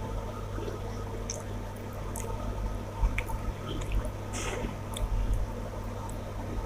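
Close-up wet eating sounds: chewing of rice and fish curry, with squelches and several short lip smacks.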